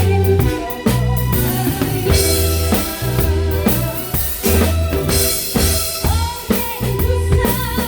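A band playing a song at rehearsal: drum kit with a steady beat of bass drum and snare, under a bass line and sustained keyboard and guitar notes.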